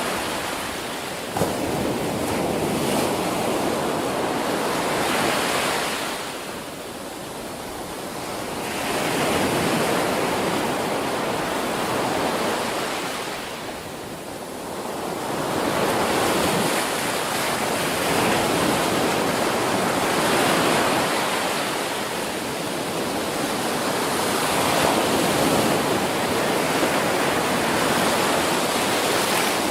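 Ocean surf breaking on a beach: a steady wash of waves that swells and eases, dipping briefly twice before building again. A short click sounds about a second and a half in.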